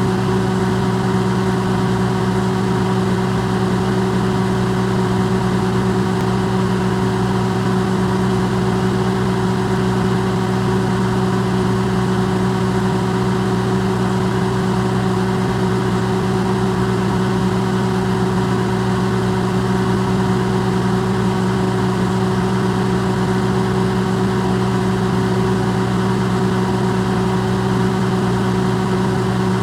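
Electrolux microwave oven running, recorded amplified: a steady, unchanging low hum with an even whir of noise over it.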